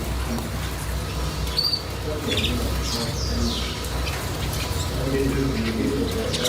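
Pet birds chirping now and then in short high calls and quick glides, with a steady low hum underneath.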